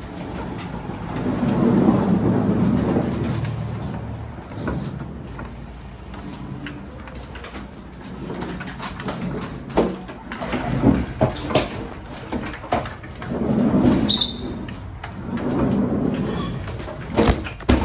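Loaded pallets being moved with a pallet jack on a trailer floor: several rolling rumbles with knocks and clunks between them, and a brief squeak about fourteen seconds in.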